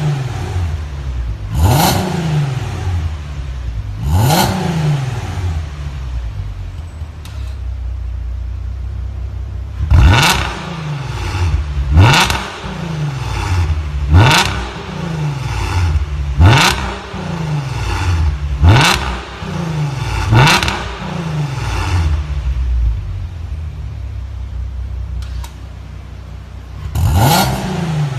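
Volkswagen R36's 3.6-litre VR6 engine with an aftermarket Krystal exhaust being blipped on the throttle about nine times, each rev climbing sharply and falling back to a steady idle. Most of the blips come in a run about every two seconds, with longer stretches of idle in between.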